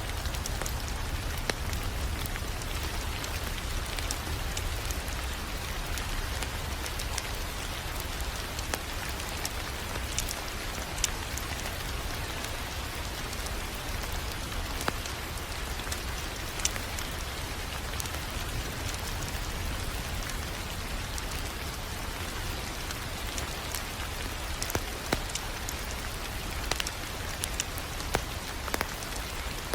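Wood fire crackling in a fireplace: a steady hiss with scattered sharp pops over a low, steady rumble.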